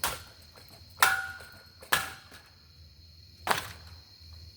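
Four hard blows against a ceiling fan being smashed apart, each a sharp knock that dies away quickly; the second and third leave a brief metallic ring.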